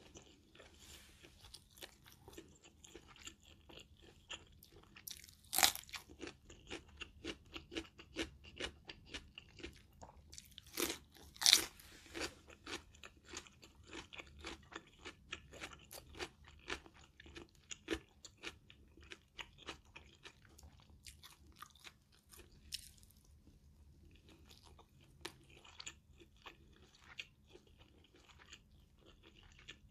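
Close-up chewing of stir-fried Thai basil pork with rice: a steady run of wet mouth clicks and crunching. There are a few louder sharp clicks about five and a half seconds in and again around eleven seconds.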